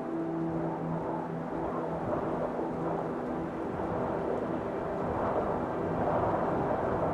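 Held ambient music tones that fade out about a second in, giving way to a steady rumbling noise that grows a little louder toward the end.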